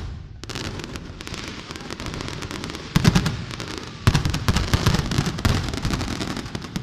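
Aerial fireworks bursting overhead: a sharp bang at the start, then dense, rapid crackling of many bursting stars, with heavier booms about three and four seconds in.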